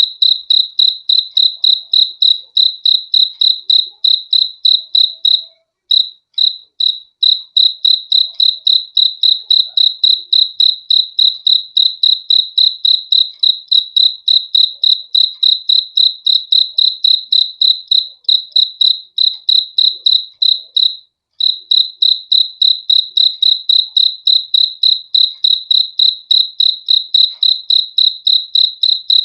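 A cricket chirping: high-pitched pulses repeating in a steady, fast rhythm, about five a second, broken by two short pauses, one about a fifth of the way through and one about two thirds through.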